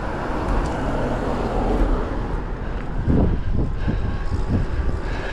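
Steady road noise from riding an electric bike along a road: tyre and wind rumble, with traffic sound swelling over the first couple of seconds.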